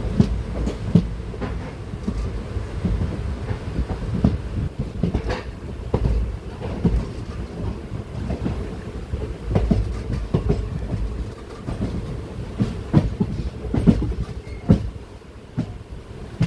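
Express train's passenger coach running on the rails, heard on board: a steady low rumble with irregular clattering knocks from the wheels on the track.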